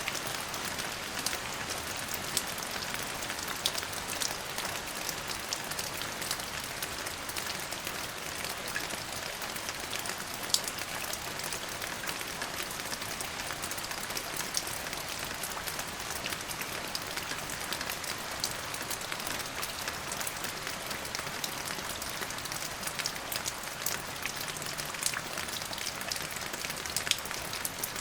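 Steady rain falling on a surface, a constant hiss dotted with many individual drop ticks.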